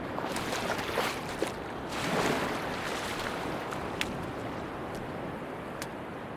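Sea waves washing onto a beach, with a swell of surf about half a second in and a stronger one about two seconds in, over a steady wash, and a few faint sharp clicks.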